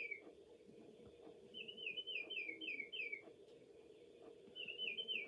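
Recorded songbird song played from a singing bird clock's speaker: three phrases, each a quick run of about five down-slurred whistled notes, over a faint steady hum.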